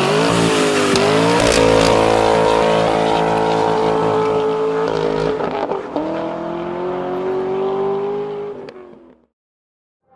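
2018 Ford F-250 Super Duty's 6.2 L V8 running through a Flowmaster true-dual exhaust, accelerating under load: the pitch climbs, drops back at gear shifts about a second in and again about five seconds in, then holds steady before fading out near the end.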